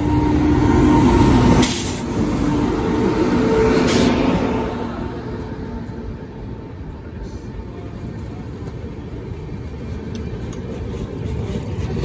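Passenger train arriving at a platform: the electric locomotive passes first with a loud rumble and steady humming tones, cut by two short hisses about two and four seconds in. The coaches then roll by with a lower rumble and a light clatter of wheels near the end.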